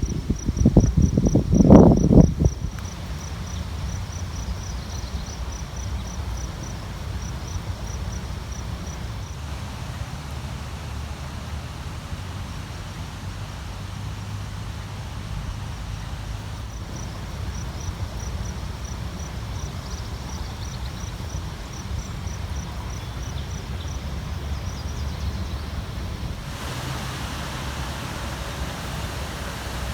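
Wind buffeting the microphone in loud low gusts for the first couple of seconds, then a steady low wind rumble. An insect chirps in a quick, even series of high pulses through much of it. Near the end a wider rush of wind through the grass rises.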